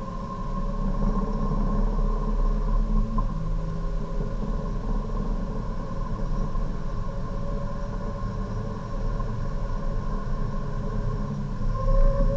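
Hyundai Avante Cup race car's engine running hard at full throttle, heard from inside the cabin. It pulls high in third, changes up to fourth partway through, and climbs on toward about 5,500 rpm. The rumble gets louder near the end as braking begins.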